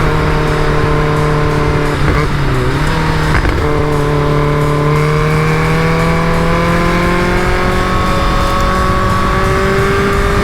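Caterham Super Seven's engine running under way over steady road and wind noise, its pitch dipping briefly about two seconds in as the throttle is lifted, then climbing slowly as the car picks up speed.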